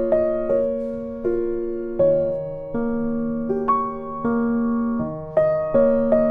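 Background music: electric piano playing slow, gently struck chords, each note ringing and fading before the next.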